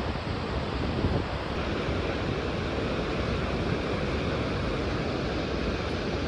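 Steady rushing noise with no distinct events, of the kind made by wind or moving water.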